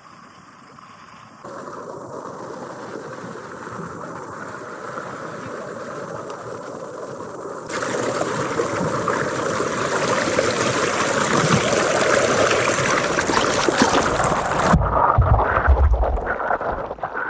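Rushing water of a creek or small waterfall, a steady hiss that jumps louder twice, about a second and a half in and again near the middle. A few low thumps come near the end.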